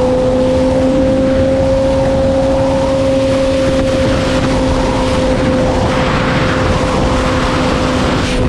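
Sport motorcycle engine running at steady high revs, its pitch nearly constant with only a slight rise and fall, under heavy wind rush. The high end drops away briefly right at the end.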